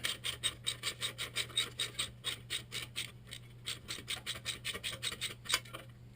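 Ratchet wrench with a 10 mm socket clicking fast and evenly, about six or seven clicks a second, as an exhaust mounting bolt is worked loose. The clicking stops near the end.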